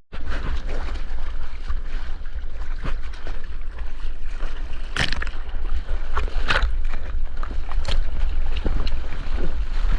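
Water splashing around a surfer in the surf, with wind buffeting the action-camera microphone in a steady low rumble. A few sharper splashes stand out about halfway through and again near the end.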